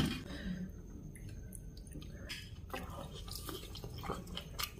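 Faint chewing and biting of people eating, with scattered small wet mouth clicks that grow more frequent from about two seconds in.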